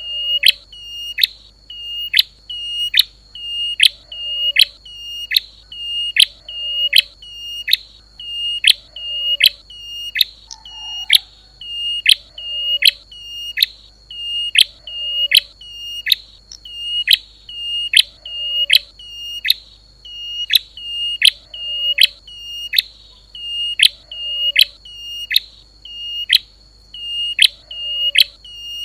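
A songbird's short, sharp, high call repeated over and over at an even pace, about one note every second and a quarter, with a fainter lower note every few seconds.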